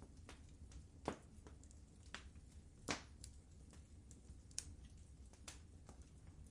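Wood fire crackling in a fireplace: irregular sharp pops and snaps over a faint steady low hum, the two loudest about a second in and just before three seconds.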